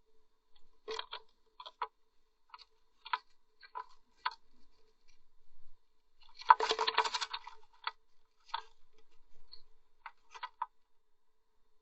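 Blue tit moving about inside a nest box: scattered sharp taps and scratches, with a denser rustling flurry about six and a half seconds in, over a faint steady hum.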